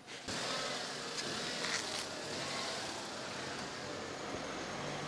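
A small hatchback car's engine running, with steady street and traffic noise.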